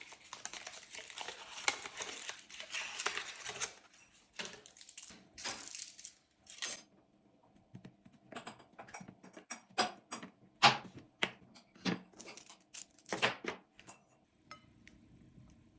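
Kitchen utensil and dish sounds: a few seconds of continuous scraping and stirring, as of a spoon working in a bowl, then a series of separate clinks and knocks of spoon against bowl and dishes being set down.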